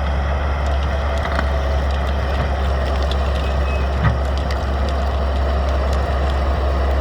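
Crawler bulldozer's diesel engine running steadily under load as it pushes a felled tree, with scattered cracks and clanks and a single thump about four seconds in.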